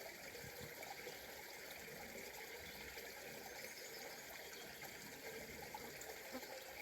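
Small brook flowing steadily, faint.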